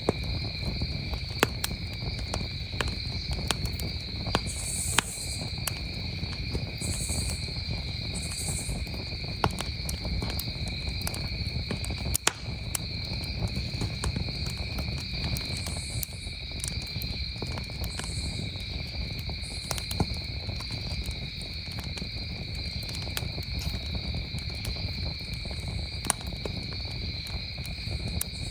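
Campfire crackling with frequent sharp pops at irregular intervals, over a steady, unbroken chorus of crickets chirping.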